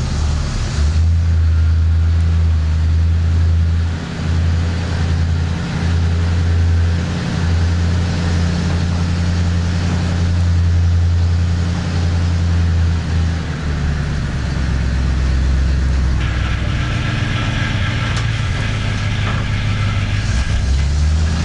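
Leyland Martian 6x6 artillery tractor's Rolls-Royce B81 straight-eight petrol engine running steadily under load as the truck moves off. Its note drops a little about two-thirds of the way through, and a higher hissing noise joins for the last few seconds.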